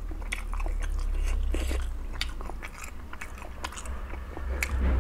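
Close-up chewing and biting of a steamed chicken momo dumpling, with many small wet clicks and smacks of the mouth.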